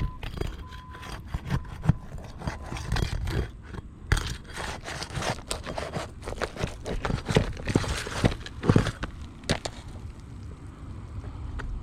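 Hands and tools working an asphalt roof shingle during a crease repair: irregular scraping and crackling with many sharp clicks.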